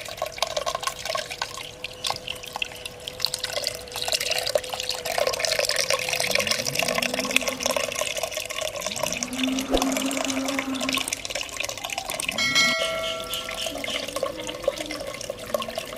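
Water trickling and splashing steadily down a small cement waterfall fountain built in a pot, with a faint steady hum under it. A brief ringing tone sounds about twelve and a half seconds in.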